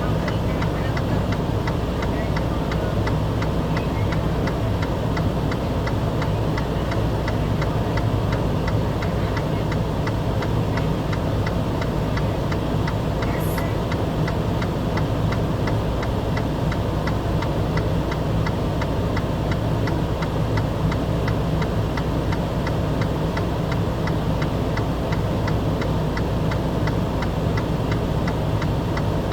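An engine idling steadily, a constant low hum with a fast, even ticking over it.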